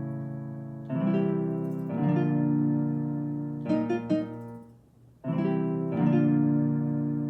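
Roland FP-30 digital piano playing slow chords on one of its 'Other' bank voices, each chord struck and left to fade. The sound dies away briefly about five seconds in before the next chord.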